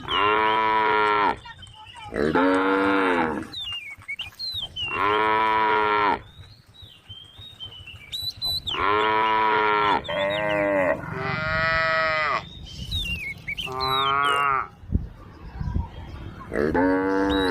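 Cows mooing repeatedly, about seven separate calls of a second or so each, one after another, with short gaps between them.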